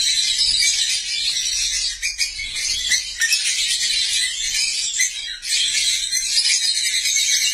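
A flock of lovebirds chattering and shrieking continuously, a dense mass of high-pitched chirps with no pauses, thinning briefly twice.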